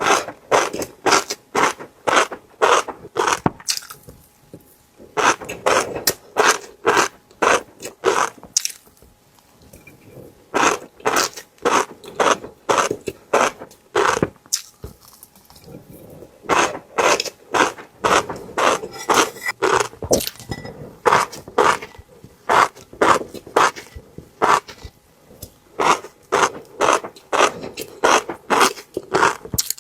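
Close-miked chewing of fish roe: crisp crunching strokes at about two to three a second, in runs of a few seconds broken by short pauses.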